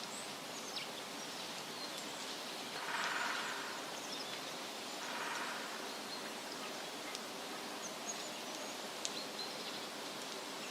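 Wind rustling through tree leaves as a steady hiss, swelling twice about three and five seconds in. Scattered short, high bird chirps sound over it.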